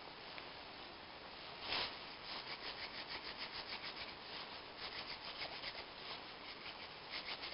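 Hand valve lapping on a Peugeot 206 1.1L petrol cylinder head: a valve is spun back and forth against its seat with grinding paste, making a gritty rubbing at about four strokes a second that starts a couple of seconds in.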